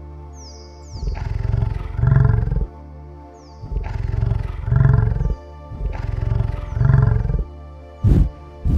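Yak grunting: three deep, drawn-out grunting calls, each in two parts, then two short low grunts near the end, over steady background music.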